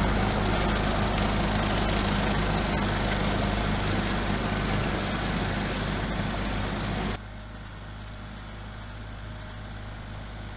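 Small tractor engine running steadily, with a brush hog behind it. About seven seconds in the sound drops suddenly to a quieter, steady low hum.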